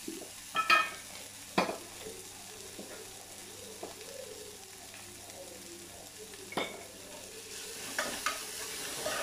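Onion, ginger-garlic paste and tomato frying in oil in an open aluminium pressure cooker, a soft steady sizzle. A steel spoon clinks against the cooker with a short metallic ring about a second in, and several times near the end as the masala is stirred.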